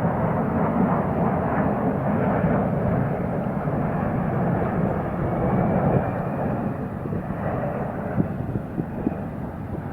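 Jet airliner engine noise: a steady rumble that slowly fades over the last few seconds, with a faint high whine in the second half.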